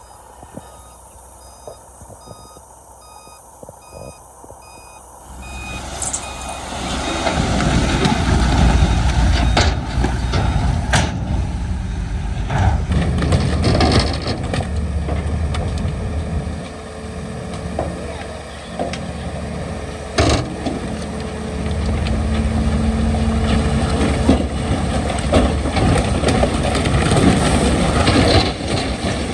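A reversing alarm beeps in a steady repeating pattern. About six seconds in, a heavy diesel engine on earthmoving equipment starts running loudly, a deep rumble with a few sharp knocks.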